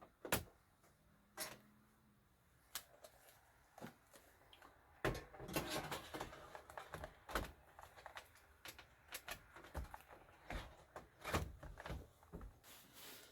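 A single-DIN Android head unit and plastic dash trim being pushed and fitted into place in the dashboard: scattered plastic clicks and knocks, with a stretch of rubbing and handling about five seconds in.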